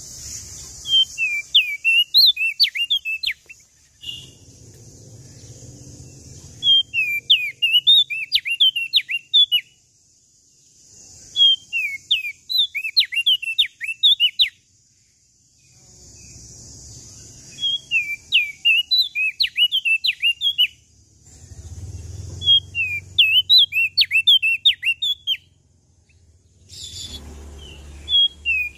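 Prenjak daun lombok singing: phrases of quick, high, sliding chirps, each about two seconds long, repeated every four to five seconds with short pauses between, over a faint steady high hiss.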